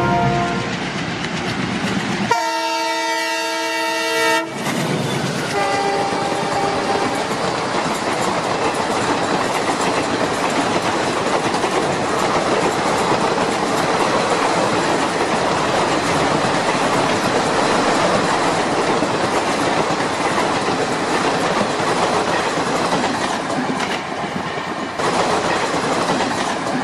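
A train horn sounds one steady blast of about two seconds, then a shorter, fainter one, over the steady rushing noise of a train running along the track.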